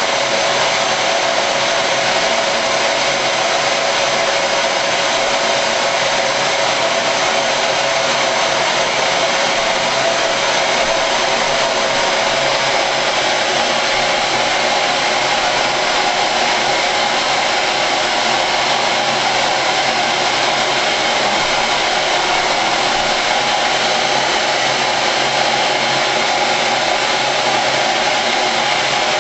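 Vacuum cleaner running steadily at an even pitch and level.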